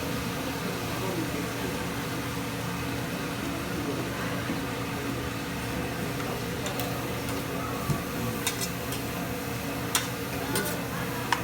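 Restaurant dining-room ambience: a steady mechanical hum with faint background talk, and a few sharp clinks of tableware in the second half.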